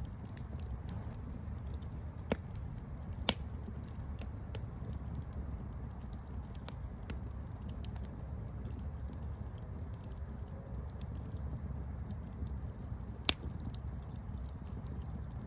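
Campfire burning: a steady low rumble of the flames with scattered crackles from the wood, and sharper pops about two, three and thirteen seconds in.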